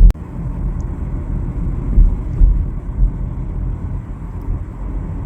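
Car driving on a bumpy dirt road: a steady low rumble of engine and tyres that swells a little now and then, with a sharp click right at the start.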